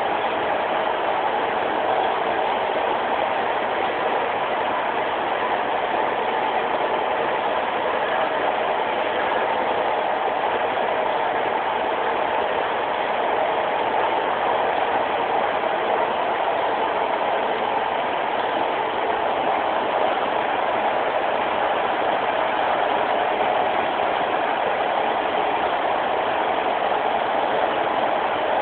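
Interior noise of a Class 156 diesel multiple unit: the steady drone of its underfloor diesel engine and running gear, heard inside the passenger saloon. Even and unchanging throughout.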